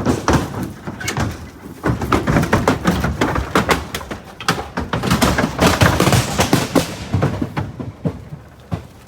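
Rapid, irregular knocking and clattering from a livestock trailer holding Exmoor ponies, dying down about seven seconds in.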